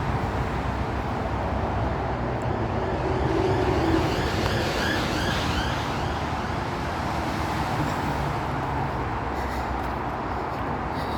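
Steady rush of M54 motorway traffic heard through the trees, swelling slightly about four seconds in.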